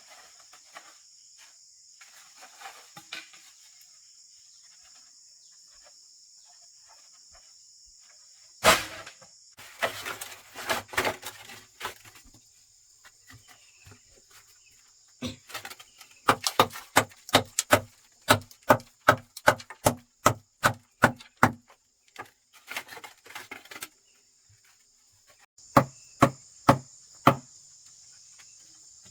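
Tool blows on wood, chopping or hammering: a single heavy strike, then scattered hits, then a fast run of about three strikes a second, and four more near the end. A steady high buzz of insects runs underneath, dropping out for a while in the middle.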